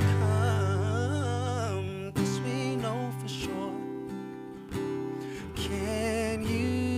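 Acoustic guitar playing sustained chords under a singer's wordless, wavering vocal runs, in a slow R&B ballad.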